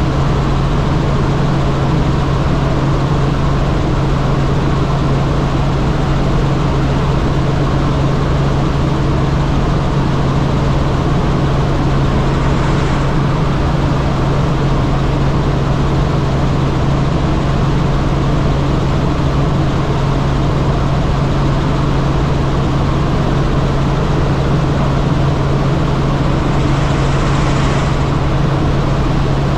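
Helicopter in flight heard on board: a loud, steady drone with a strong low hum, unchanging throughout.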